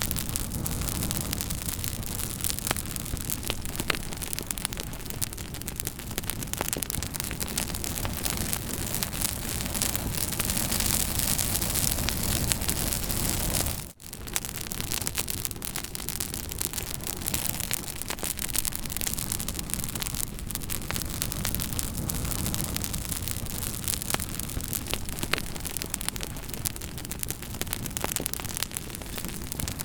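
Campfire burning: a steady rushing hiss with frequent sharp crackles and pops of burning wood. The sound cuts out for an instant about halfway, then carries on.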